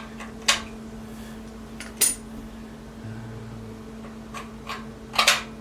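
Sharp metallic clanks and clinks of steel vice grips and a sheet-steel patch plate being handled and knocked against the car's metal. There are a few separate strikes, the loudest about two seconds in and near the end, over a steady electrical hum.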